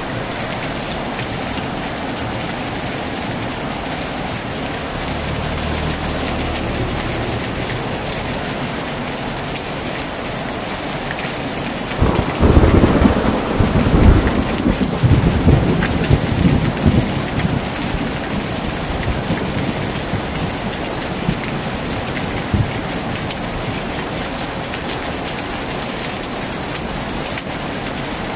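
Heavy rain pouring steadily, with a clap of thunder about twelve seconds in that rumbles on and fades over the next several seconds.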